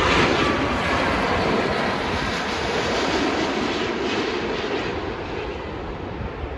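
Large jet airliner passing low on its final approach to land, its engine noise slowly fading away as it moves off.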